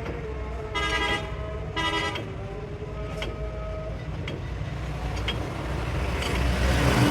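A vehicle horn toots twice, short and about a second apart, over a steady low engine and traffic rumble that grows louder near the end.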